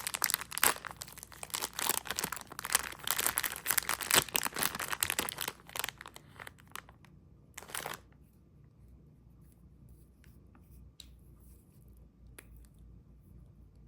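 Candy packaging being torn open and crinkled, a dense crackling rustle for about six seconds, with one more short rustle near eight seconds, then only a few faint clicks.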